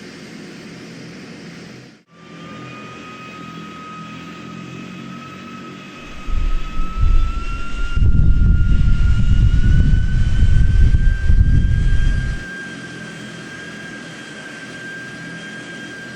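Airplane engine whine that rises slowly and steadily in pitch, with gusts of wind buffeting the microphone in the middle.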